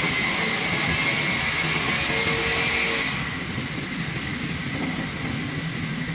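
Sawmill saw and machinery running steadily with a hissing, whining noise. About three seconds in it drops suddenly to a quieter, duller run.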